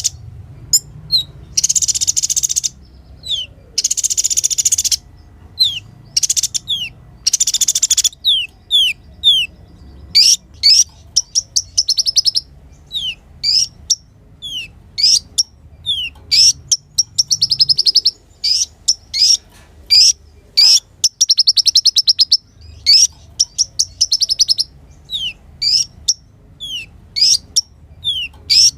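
Kolibri ninja (konin) sunbird singing loudly. The song is a string of short, sharp down-slurred notes, broken several times by rapid, buzzy trills.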